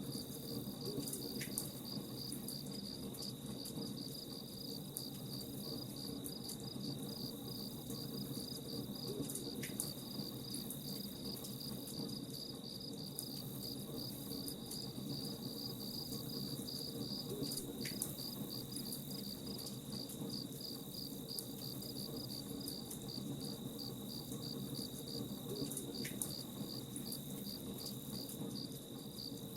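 Crickets chirping in an even, rapidly repeating rhythm over a steady low hiss with scattered faint crackles from a campfire.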